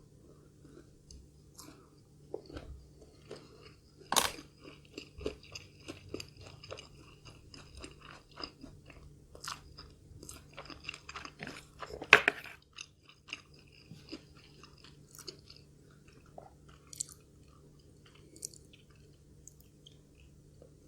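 A person chewing food close to the microphone, with irregular crunches and crackles. Two loud crunches come at about four seconds and about twelve seconds in.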